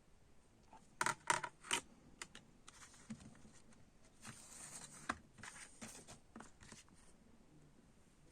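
A CD's packaging being handled up close: a quick cluster of sharp plastic clicks about a second in, a short scraping rustle about four seconds in, then a few lighter clicks.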